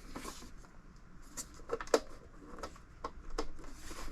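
Light handling noises from a plastic toy wrestling ring: scattered small clicks and taps, with a brief soft rustle near the end.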